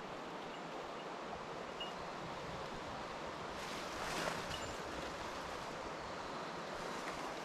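Steady rushing of a mountain stream, swelling briefly about four seconds in.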